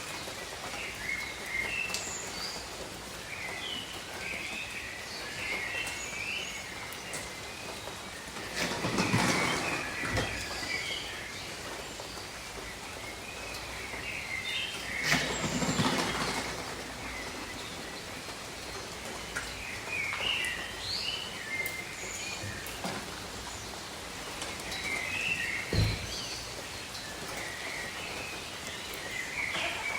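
Steady rain falling on jungle foliage, with birds chirping throughout. The rain swells louder twice, and a dull thud comes near the end.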